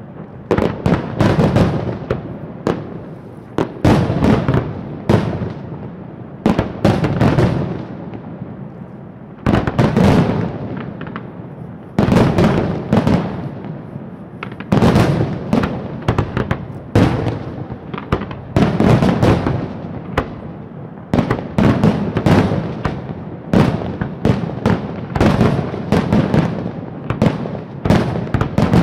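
Fireworks display: volleys of sharp bangs going off several at a time, with a low rumbling echo between them.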